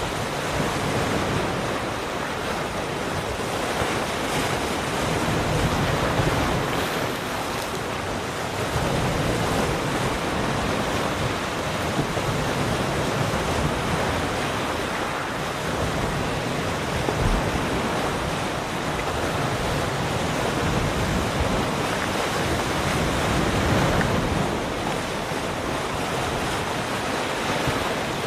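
Ocean waves breaking and washing on a shore, a continuous rush of surf that swells and eases every few seconds, with some wind on the microphone.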